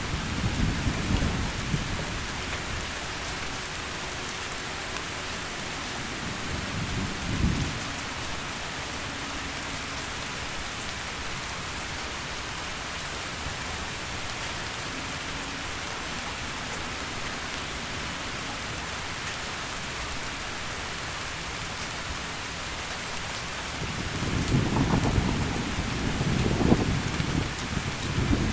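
Heavy rain falling steadily, with thunder. A low rumble dies away in the first two seconds, a short one comes about seven seconds in, and a longer, louder rumble builds near the end.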